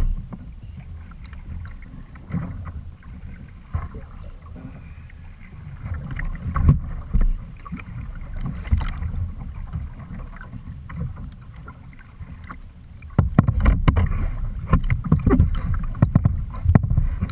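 Kayak on the water: water lapping and sloshing with scattered knocks against the hull over a low rumble. It gets louder and busier, with many quick knocks and splashes, about 13 seconds in.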